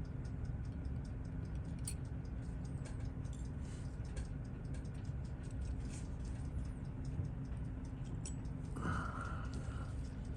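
Faint, irregular small clicks of tweezers and small tools handling metal watch-movement parts during disassembly, over a steady low hum. A brief higher-pitched tone sounds about nine seconds in.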